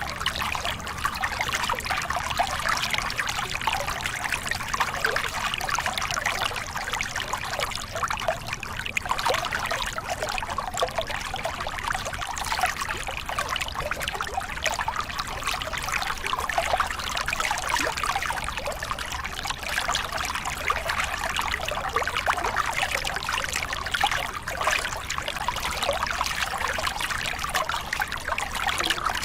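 Small river cascade: water splashing and trickling over rocks in a steady, continuous rush with a bright, bubbling texture.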